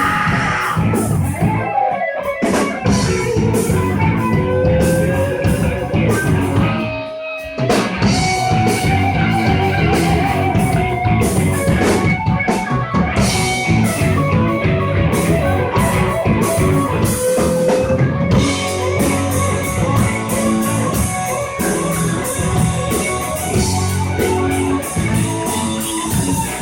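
Rock band playing an instrumental passage: an electric guitar lead with held, bending notes over bass and drum kit. The music drops away briefly about seven seconds in.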